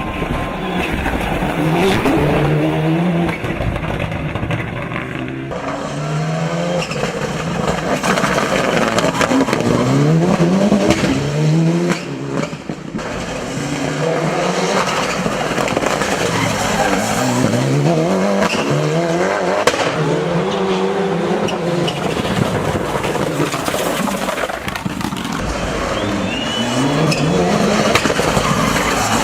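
Turbocharged four-cylinder engine of a Mitsubishi Lancer Evolution VI hill-climb car at full attack. The note climbs hard and drops again over and over as the driver runs through the gears and lifts for corners, with some tyre squeal.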